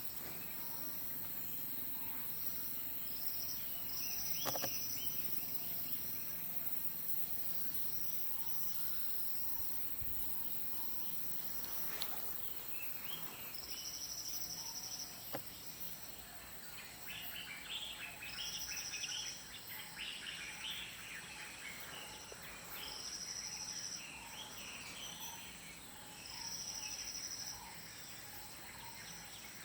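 Outdoor ambience of insects buzzing in repeated high-pitched bursts, each about a second long, with birds chirping, most busily around the middle.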